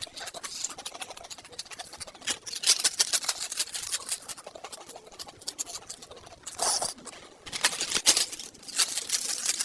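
Close-miked eating: wet chewing and lip-smacking mouth sounds from a person eating fried eggs, in quick irregular clicks with short hissy bursts.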